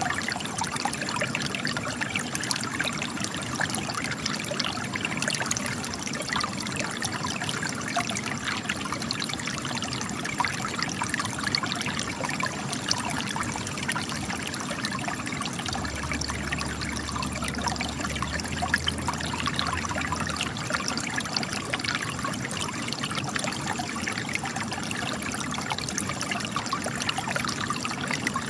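Spring water trickling and splashing from cracks in rocks, a steady babble of small drips and splashes.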